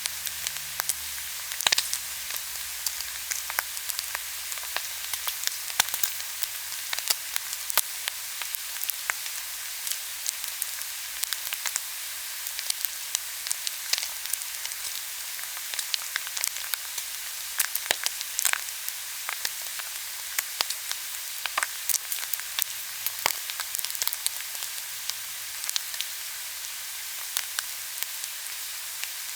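Food frying in a hot pan: a steady sizzle with frequent crackles and pops throughout.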